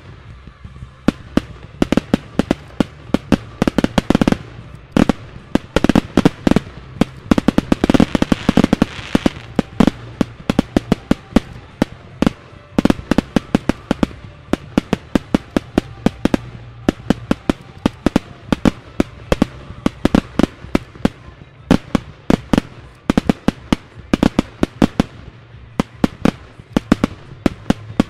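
Aerial fireworks in a closing barrage: a rapid, continuous string of sharp bangs, several a second, as effects burst overhead. They pack tightest into a dense volley from about four to ten seconds in.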